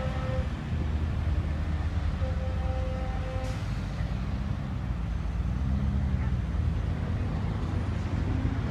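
Racing vehicle engines running on the circuit over a steady low rumble, with a faint steady engine tone a couple of seconds in and one sharp click about three and a half seconds in.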